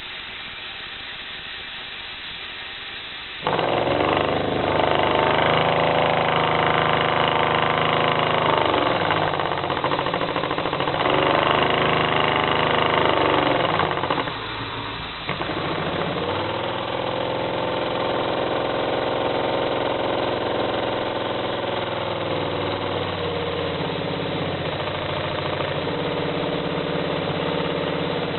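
Model three-cylinder steam engine running on compressed air: after a faint hiss it starts suddenly about three and a half seconds in and runs fast with a rapid, even exhaust beat. About halfway through it falls away briefly, then picks up again and runs steadily to the end.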